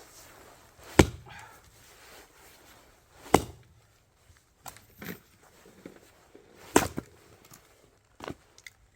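Axe blows splitting firewood: three heavy strikes, each a few seconds apart, with lighter knocks of wood between them.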